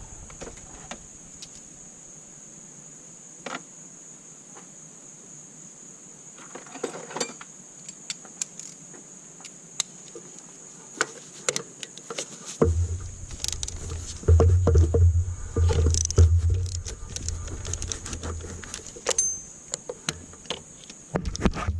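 Scattered metallic clicks and clinks of hand tools and bolts while the valve cover is being unbolted from a 3.5 L V6. Low rumbling thumps come in about halfway through.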